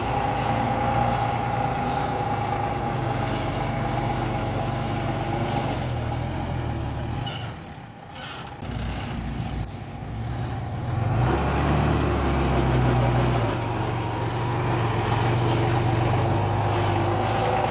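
Heavy diesel earthmoving machinery engine running steadily. About eight seconds in the sound drops away briefly. It comes back and is louder for a couple of seconds, as under heavier load, then settles again.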